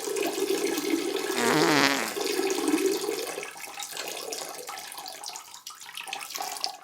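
A stream of water running and splashing into water in a restroom, steady at first and easing off after about three and a half seconds. A short warbling squeak sounds about a second and a half in.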